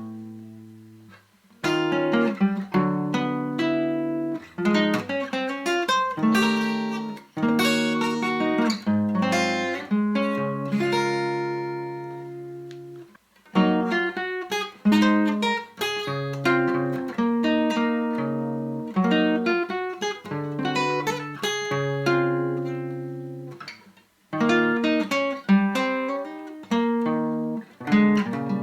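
Background music: acoustic guitar played solo, plucked chords and strums that die away, with brief pauses a second in, about halfway through and near the end.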